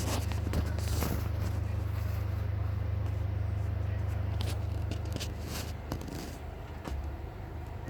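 A steady low hum that eases off about five seconds in, with scattered clicks and knocks over it.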